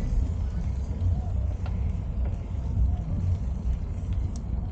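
Steady low rumble of wind buffeting the microphone on a moving bicycle, with a few faint ticks.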